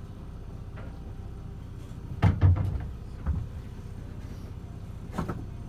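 Boat engine running low and steady at docking speed, with a few knocks or thumps, the loudest two coming about two seconds in.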